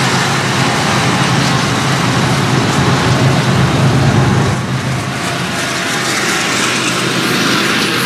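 BNSF diesel locomotives passing close by with a loud engine drone. About four and a half seconds in the last unit goes by and the drone drops away, leaving the steady rolling noise of flatcars carrying truck trailers.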